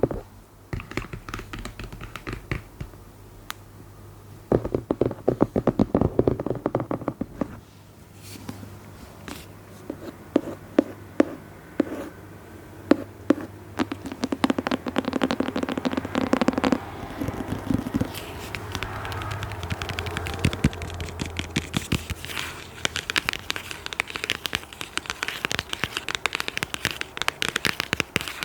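ASMR tapping and scratching on objects: irregular sharp taps mixed with scratchy rubbing. They come in scattered clusters at first and turn into a dense, fast crackle of taps near the end.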